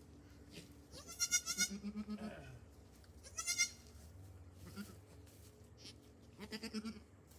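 Newborn goat kid bleating three times: high, quavering bleats a couple of seconds apart, with a lower, softer call under the first and last.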